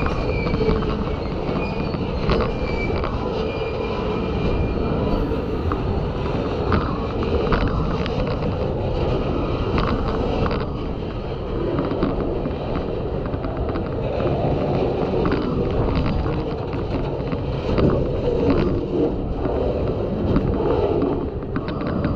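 Freight cars rolling slowly past at close range: steel wheels rumbling and clunking over the rails, with a thin wheel squeal in the first second. Hard rain getting into the microphone setup adds crackle and distortion.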